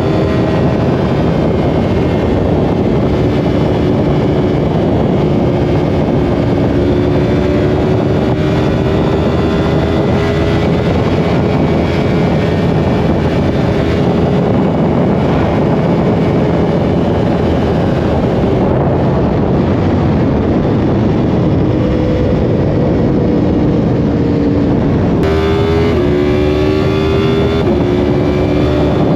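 Yamaha R1 inline-four engine pulling at speed under steady wind rush. The engine note drifts slowly in pitch, with a brief change in pitch near the end.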